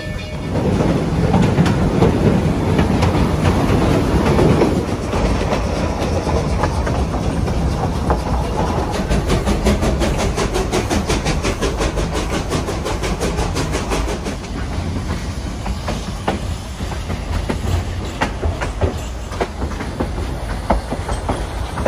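Durango & Silverton narrow-gauge steam train running along the track, heard from an open coach window: a steady rumble of wheels on rails, loudest in the first few seconds, with a rapid clicking rhythm through the middle.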